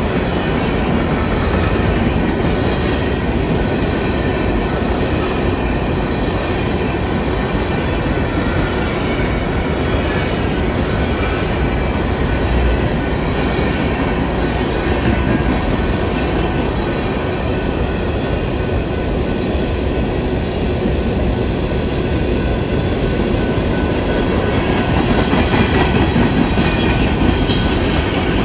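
Cars of a BNSF coal train rolling past, a steady rumble of steel wheels on rail that grows a little louder near the end.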